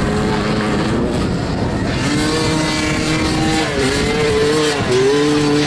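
Motoball motorcycles' engines running hard on the pitch, their pitch holding, dipping briefly twice in the second half and climbing again as the riders throttle off and on.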